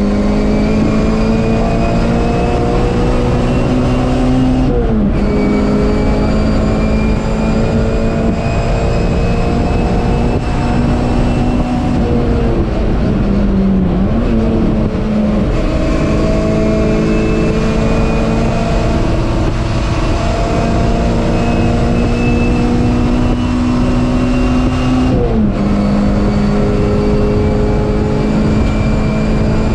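MG Metro race car's A-series four-cylinder engine, heard from inside the cabin, running hard on the circuit: the engine note climbs steadily and drops sharply at each of several gear changes. A steady rush of tyre and road noise runs underneath.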